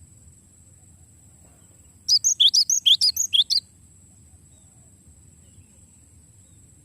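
Cinereous tit (gelatik batu) singing one quick rolling phrase of about ten rapid, sharp notes, lasting about a second and a half and starting about two seconds in.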